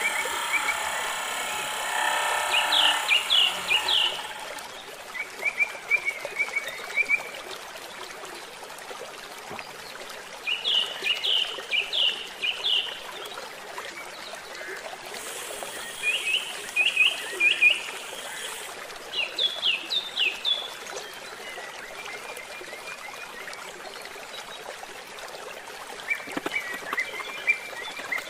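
A handheld power tool's small motor whines for the first few seconds and stops. A bird then sings short, quick chirping phrases again and again, every few seconds, over a steady background hiss.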